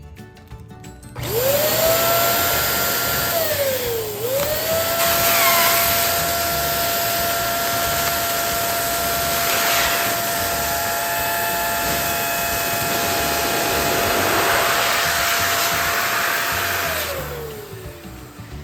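Electric balloon inflator running: its motor whine rises as it spins up about a second in, dips briefly around four seconds, then holds steady with a strong rush of air before winding down near the end.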